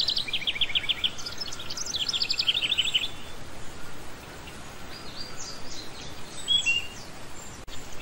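Small birds chirping: two quick trills of rapid high notes in the first three seconds, then softer scattered chirps, over a steady faint hiss.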